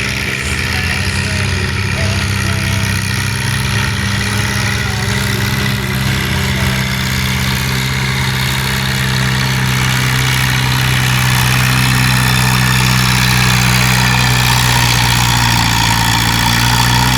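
Farm pulling tractor's engine running steadily at one pitch under load, getting a little louder in the second half.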